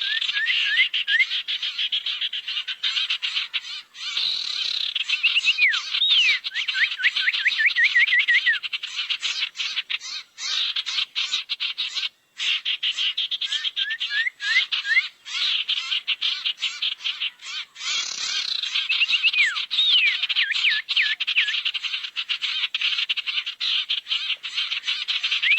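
Bird-lure recording of sirtu birdsong: a dense, fast chattering trill, broken twice by a series of short up-slurred whistled notes, the phrase repeating as a loop.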